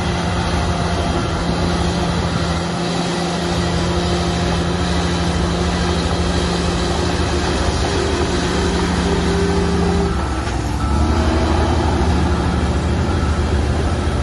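Heavy bulldozer diesel engine running steadily under load; about ten seconds in its pitch drops and it gets slightly louder as the load or throttle changes.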